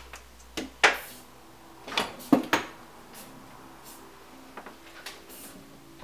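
Several sharp knocks and clanks of hard objects being handled and set down, the loudest about a second in and again about two and a half seconds in, over faint background music.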